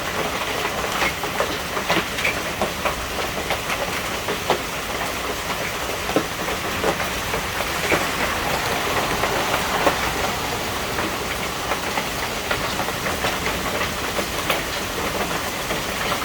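Hail coming down hard: a dense, steady clatter of hailstones striking surfaces, with many sharper single hits scattered irregularly through it.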